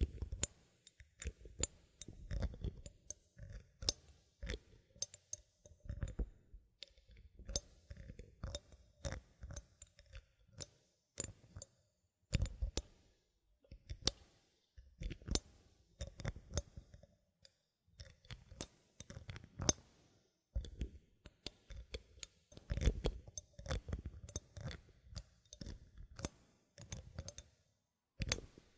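Bottle caps being handled close to the microphone: irregular sharp clicks and taps, often several a second, with soft rubbing between them.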